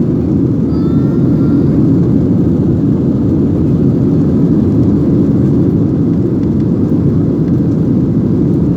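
SpiceJet airliner's engines running at take-off power: a loud, steady low rumble that holds even throughout.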